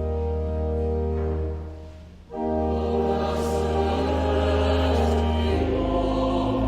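Church organ finishing a hymn introduction, dropping away briefly about two seconds in, then coming back in full as the choir and congregation start singing the hymn with it.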